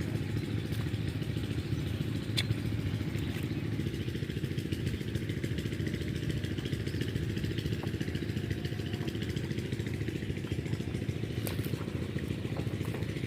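A power tiller's diesel engine running steadily, with a sharp click about two and a half seconds in and another near the end.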